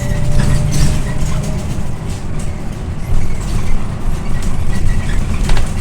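Scania OmniLink I city bus driving, heard from inside the passenger cabin: a steady low engine and road rumble with body panels rattling, sharp clatters about a second in and near the end.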